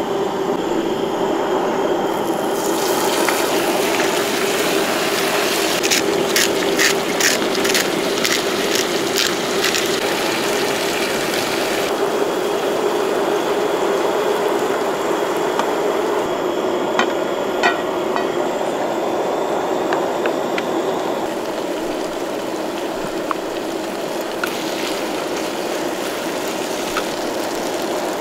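Chicken frying in oil in a pot on a propane camp stove, sizzling steadily. A wooden spatula stirs and clicks against the pot, with a quick run of clicks several seconds in and a few more later. A steady hum runs underneath.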